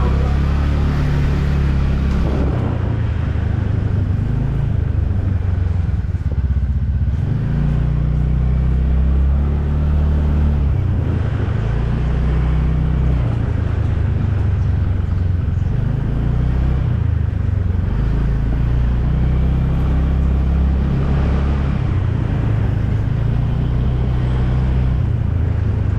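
Motorcycle ride along a road: steady engine and road noise under heavy low wind rumble on the microphone.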